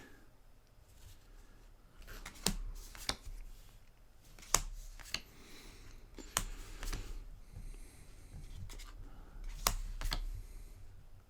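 Magic: The Gathering trading cards being handled and flipped through, with scattered sharp clicks and snaps of card edges and a short rustle about five seconds in.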